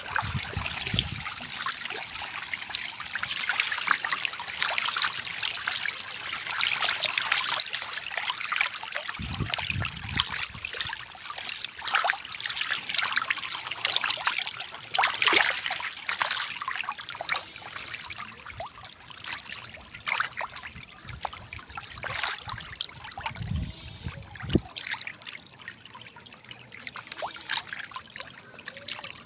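Water trickling and splashing, with many small sharp splashes scattered through it, and a few brief low rumbles.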